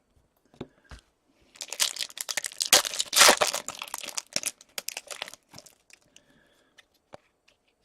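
Trading-card pack wrapper crinkling and tearing as it is opened, loudest midway, followed by a few light clicks of cards being handled.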